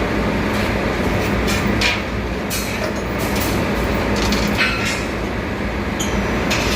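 Steady engine-room machinery running loud, with a low hum, and a series of short metallic clanks and knocks from the work on the main engine air cooler.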